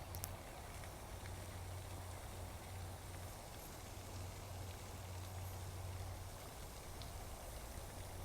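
Faint, steady outdoor background: a constant low rumble under an even hiss, with a faint click right at the start.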